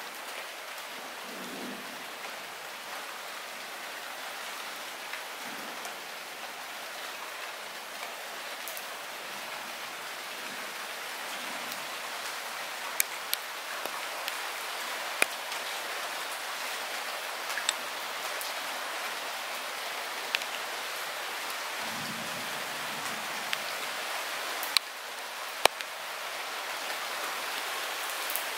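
Light rain falling steadily with an even hiss. Now and then a single drop lands sharply close by, more often in the second half.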